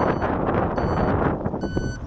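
Dump truck running, with heavy wind noise on the microphone; a reversing beeper sounds once near the end.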